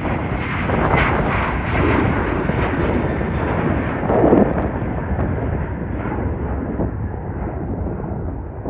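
Jet airliner passing close by, its engine noise a loud, broad rumble that swells over the first second and stays loud.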